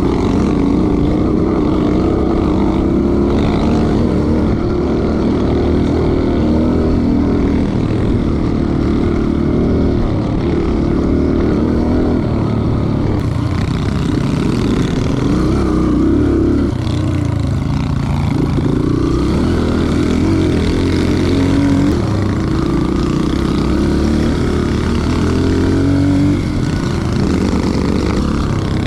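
Small off-road dirt bike engine running under load while riding a trail, its pitch rising and falling again and again as the rider works the throttle and gears.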